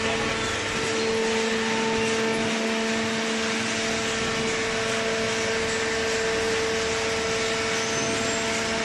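Paper baling machine running with a steady mechanical hum and a held low whine.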